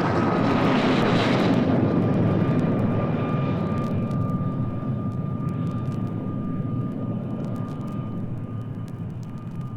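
Fixed-wing aircraft flying past and receding. Its engine noise is loudest about a second in and fades steadily, under a steady whine that drifts slightly lower in pitch.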